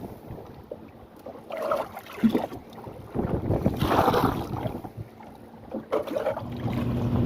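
Wooden canoe on the sea, with irregular splashing and knocking of water in the hull and wind on the microphone. Near the end a boat engine starts a steady low hum.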